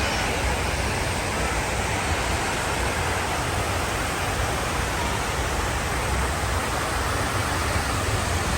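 Steady rush of water cascading down the walls of the 9/11 Memorial pool waterfall.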